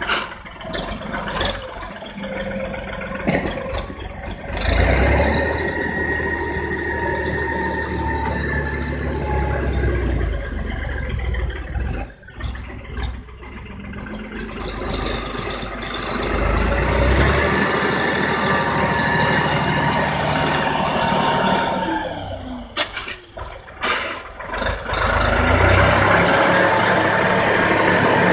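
Erkunt 70 farm tractor's diesel engine running under varying load while working a tractor-drawn manure spreader. It dips briefly about twelve seconds in and again a little past halfway, and runs louder in the last few seconds.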